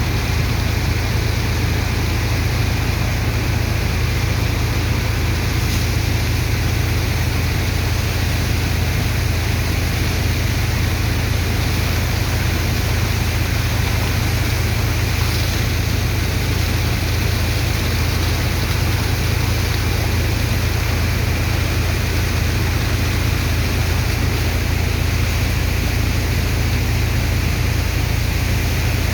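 Sand-dredging water pump running steadily: a constant loud low engine drone under an even rush of water and sand.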